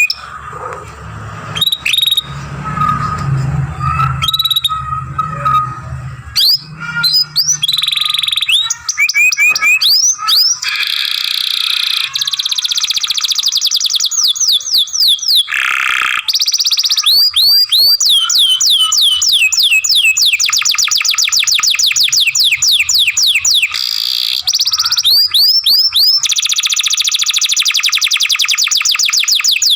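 Canary singing a long song of rapid trills, fast runs of repeated chirps and sweeping whistles strung together with hardly a break. A low hum sits under the song for the first several seconds.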